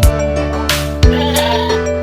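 Background music with a steady beat. A goat bleats over it once, about a second in, with a wavering cry.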